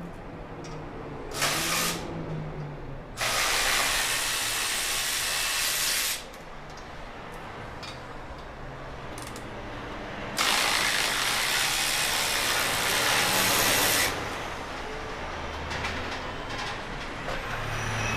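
Compressed air hissing in three bursts: a short one, then two of about three seconds each, each starting and stopping abruptly.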